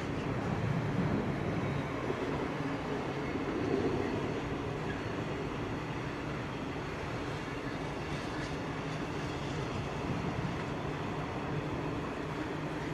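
Container wagons of a long intermodal freight train rolling past over a rail bridge: a steady rumble of wheels on rail that neither rises nor falls.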